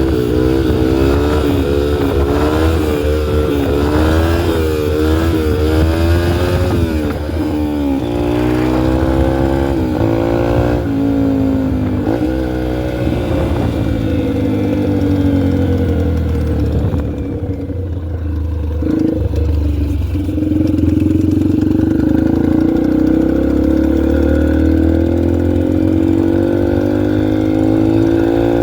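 A 2003 Yamaha TTR125L's single-cylinder four-stroke engine revving. For the first several seconds the pitch wavers quickly up and down, then it falls away and runs lower, and it climbs again near the end.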